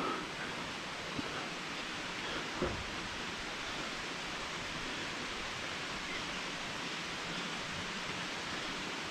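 Steady rush of a waterfall, an even noise with no break, with two light knocks in the first three seconds.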